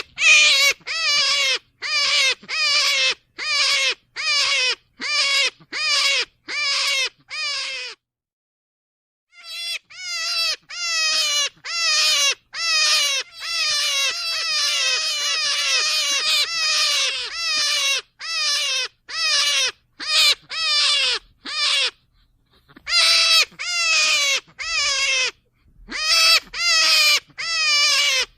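Rabbit squealing: a long run of loud, quavering, downward-bending cries, about two a second, broken by two short pauses about a third and three quarters of the way through.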